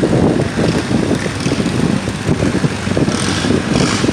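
Boat engine running under way, with wind buffeting the microphone in a steady, dense rumble.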